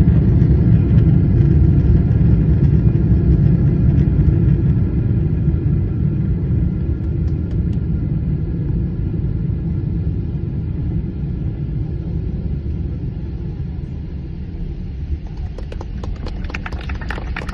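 Boeing 777-300ER's GE90 engines and the runway rumble heard inside the cabin, loud and slowly dying away as the airliner slows after touchdown with the engines throttled up. Light rattling starts near the end.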